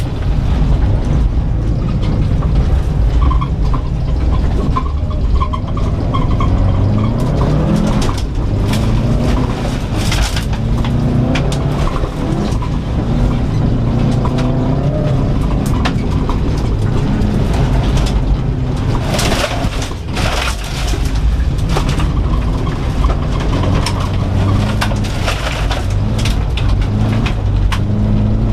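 Cabin sound of a 2004 Subaru Impreza WRX STI's turbocharged flat-four driven hard on loose dirt. Engine pitch repeatedly climbs and drops through the gears, with bursts of crackling grit and stones hitting the car about a third of the way in and again past the middle.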